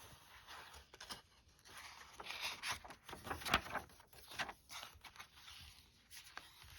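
Paper pages, cards and pockets of a handmade junk journal being turned and handled: irregular rustling and soft scraping, loudest about halfway through.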